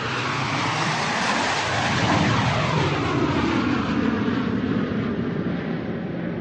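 Airplane flying overhead: engine noise that swells to its loudest about two seconds in and then slowly eases off, with a sweeping, phasing quality as it passes.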